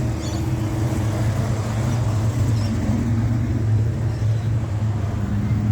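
An American car's engine running with a steady low rumble as the car moves slowly close by.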